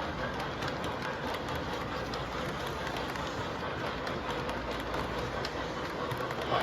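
Model steam locomotive running on the layout track, a steady running noise with faint clicks from the rails.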